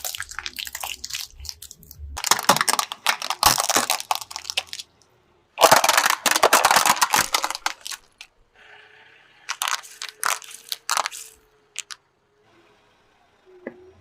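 Things crunching and cracking as they are crushed under a car, in three long bursts of dense crackling. A faint steady hum runs beneath the bursts.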